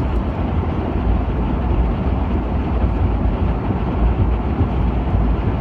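Plow truck driving, its engine and road noise heard from inside the cab as a low, steady rumble.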